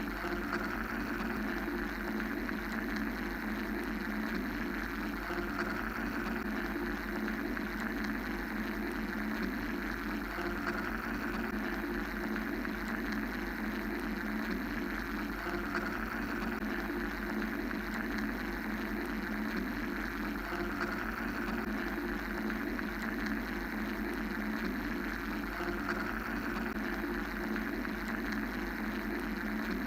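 Steady mechanical white noise: a constant, unchanging rushing hum with a low rumble beneath it.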